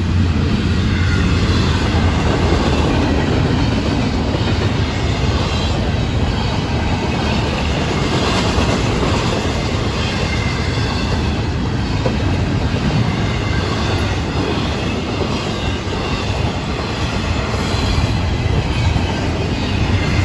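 Florida East Coast Railway freight train's cars rolling past, their wheels running on the rails in a loud, steady noise.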